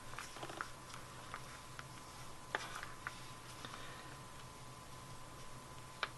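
Paper card pieces being handled and positioned on a work surface: scattered soft taps and clicks, with a sharper click about two and a half seconds in and another near the end, over a faint steady hum.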